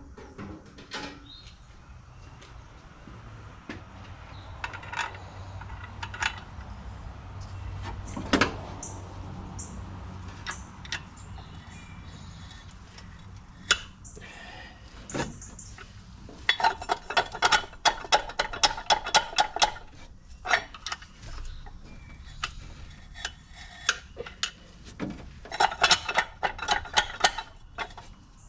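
Hand tools clinking and tapping on metal while a stuck pulley and spacer are worked loose at the front of a DeSoto Hemi engine: scattered sharp, ringing metallic clicks, then two runs of rapid clicking, one a little past the middle and one near the end.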